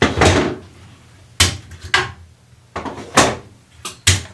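Woodworking clamps being taken off a glued-up chair seat: a string of about six separate clunks and clatters.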